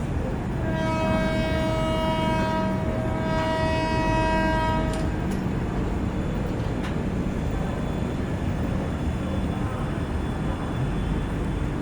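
Train horn sounding one long blast of about four seconds, over the steady rumble of a running train.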